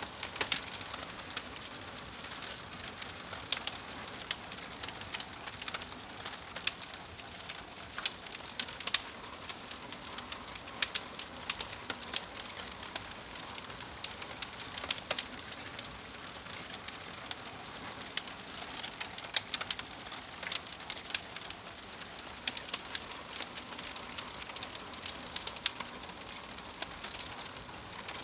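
Wood fire crackling: a steady hiss with irregular sharp pops and snaps, several every second.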